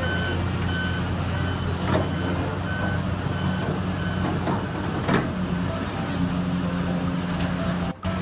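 Heavy diesel construction machinery running steadily, with a backup alarm beeping over and over. Two sharp knocks stand out about two and five seconds in, and the sound drops out for a moment near the end.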